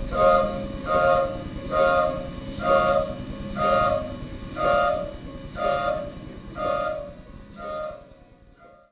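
A boxed mechanical sound machine sounds a pitched, reedy chord in short repeated blasts, first about every half second and then slowing to about one a second. The blasts grow quieter and the sound cuts off at the end.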